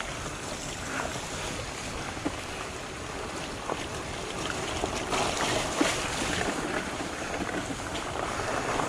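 Fat bike rolling down a dirt trail: a steady rush of wind on the microphone and tyre rumble. A few sharp clicks and knocks from the bike run through it, and it gets a little louder about five seconds in.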